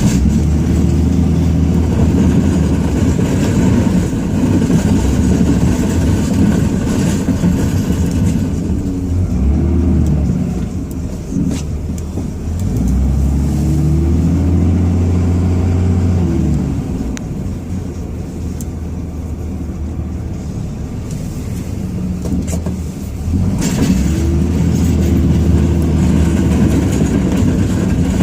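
2005 Dodge Ram 2500's 5.9-litre Cummins turbo-diesel running under load while plowing snow, its pitch rising and falling several times as it speeds up and slows down, with a quieter, lower stretch past the middle.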